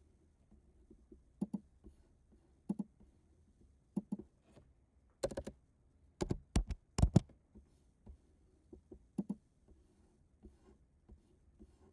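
Scattered sharp clicks from computer keys and mouse buttons, coming about every second or so, with a louder run of half a dozen clicks in the middle.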